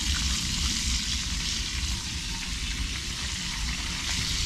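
White-winged dove pieces frying in hot oil: a steady sizzle with small crackles, over a low rumble.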